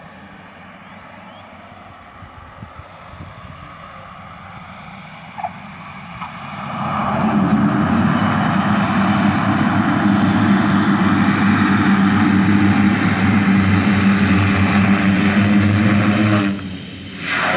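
Airliner landing: a steady low rumble, then about seven seconds in the engine noise swells sharply to a loud, steady sound with a low hum. It dips briefly near the end, then comes back.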